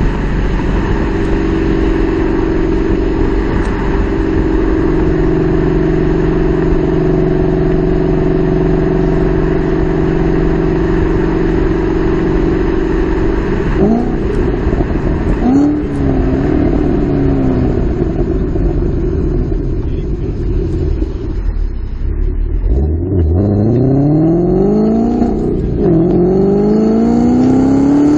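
2013 Mustang GT's 5.0 V8 running through American Racing long-tube headers, a catted X-pipe and factory mufflers: a steady exhaust note for about the first half, then revving up in several sharp climbs near the end, the pitch dropping back between each.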